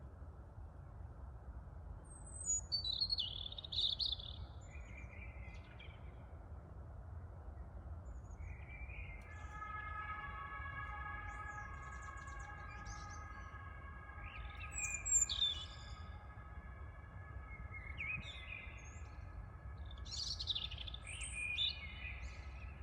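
Songbirds calling in short chirps and phrases several times, loudest around three, fifteen and twenty-one seconds in, over a steady low rumble of wind. From about nine seconds in, a steady high whine of several held tones joins and continues, a distant city machine or vehicle sound.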